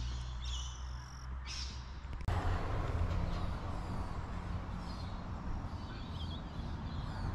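Birds calling, three or four loud calls in the first two seconds. After a sudden cut, a louder steady outdoor noise with a low rumble, with a few faint bird chirps over it.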